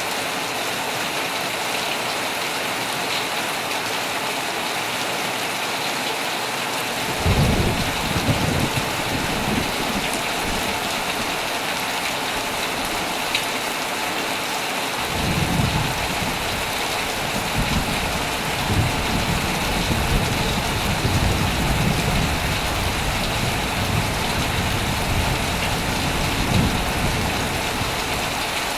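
Heavy rain falling steadily on a tent. About seven seconds in, a roll of thunder rumbles for a few seconds, and from about halfway through a longer rolling rumble of thunder goes on until near the end.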